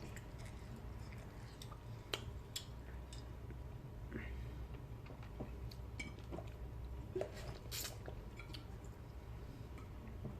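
A person chewing and eating seafood close to the microphone, with scattered short clicks and smacks over a low steady hum.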